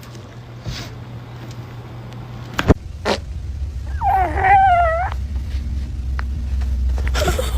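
A cat meows once, a call of about a second with a wavering pitch, over a steady low hum; two sharp knocks come shortly before it.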